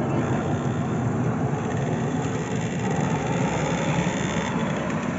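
An engine running steadily: a continuous low rumble and rush with no clear beat or pitch change.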